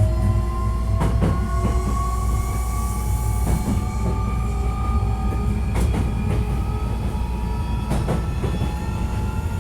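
Hankyu 1300 series electric train running and picking up speed, heard from inside the car: a low rumble under a motor whine of several tones that rises slowly in pitch, with sharp wheel clicks over rail joints every second or so.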